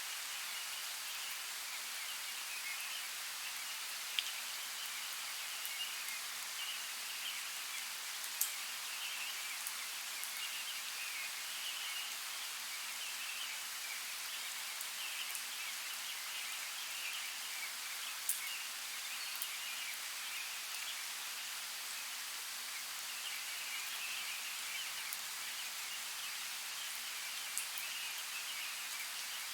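Steady hiss of a flowing forest creek, with faint high chirping woven through it and a few sharp ticks.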